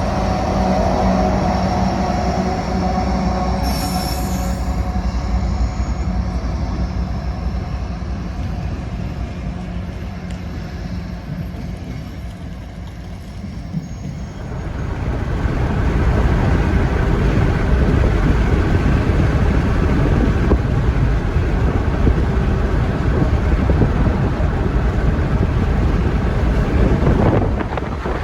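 Freight train diesel locomotives running, their steady engine hum fading over the first half. Then an abrupt change to a louder steady rush of wind and rumbling train noise, heard while pacing a freight train at about 60 mph.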